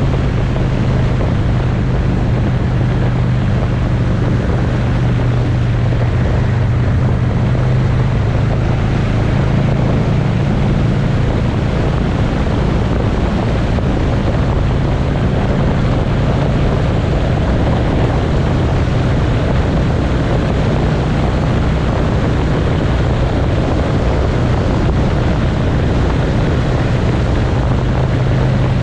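Motorcycle engine running at a steady cruising speed, one even low drone that never changes pitch, with wind rushing over the microphone.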